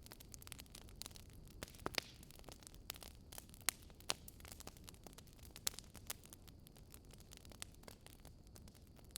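Faint crackling of a burning wood fire: irregular sharp pops and snaps over a low steady hum.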